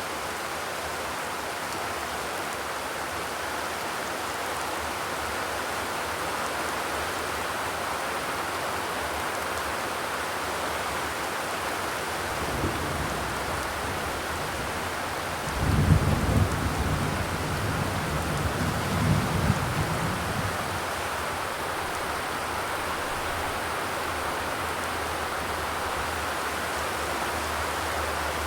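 Steady heavy rain falling. About halfway through, a low rumble rises and lasts about five seconds before fading back into the rain.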